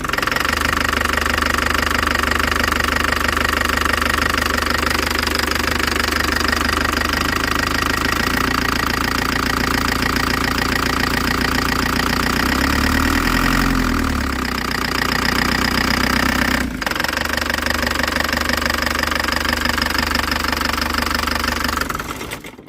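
Mercedes-Benz Vito W638's OM601 four-cylinder diesel engine running with a knocking noise, the cause of which the owner is trying to find. Its pitch briefly rises and falls about two-thirds of the way through.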